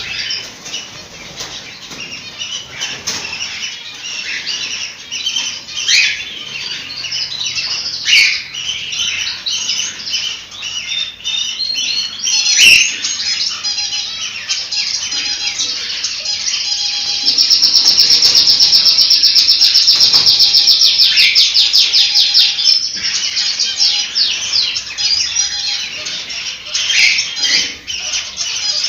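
Cockatiels chirping and chattering continuously, with a loud, rapid, evenly pulsed trill held for about five seconds past the middle. This is cockatiel song of the kind played to stimulate breeding.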